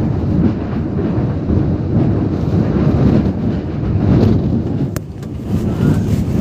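Typhoon winds buffeting, a loud low rumble that swells and eases in gusts, with one sharp click about five seconds in.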